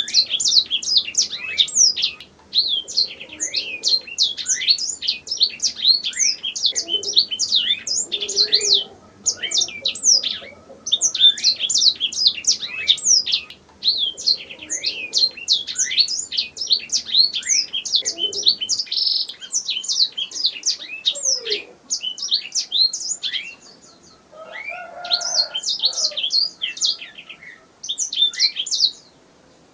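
Domestic canary singing a long, rapid song of fast high trills and chirps, broken by a few short pauses.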